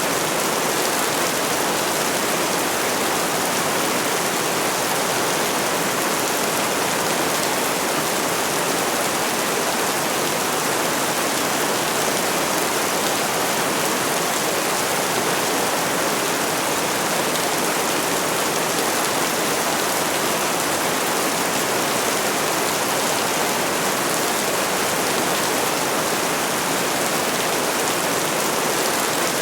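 Rain falling steadily: a dense, even hiss that holds the same level throughout, with no thunder.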